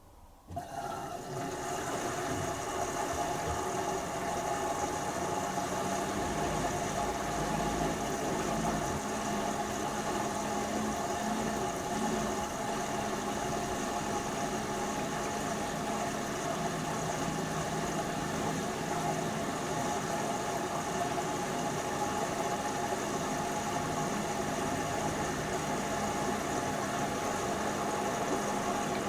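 LG TurboWash 360 washing machine running at the start of its final rinse: a steady mechanical hum with a higher whine, starting suddenly about half a second in and holding level in pitch throughout.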